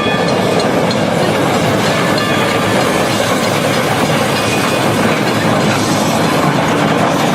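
Train rolling along the track: a steady, loud rumble and clatter of wheels on rail.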